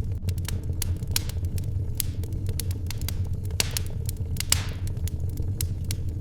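Wood fire crackling, with irregular pops and snaps over a steady low rumble, and one louder snap about four and a half seconds in.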